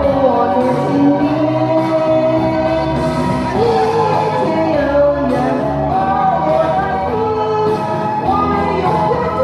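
A singer's voice holding a slow melodic line over instrumental accompaniment.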